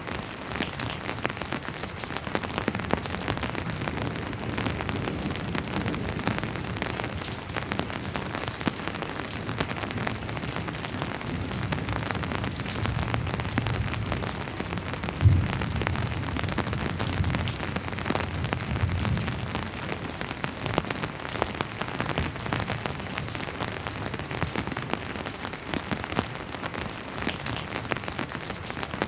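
Steady rainfall pattering on surfaces, with many individual drops. Through the middle a low, faint rumble of distant thunder swells and fades, with one sudden low thump about halfway through.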